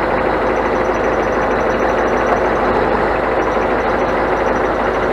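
Scania truck's diesel engine running steadily, a continuous even mechanical noise with a faint held hum.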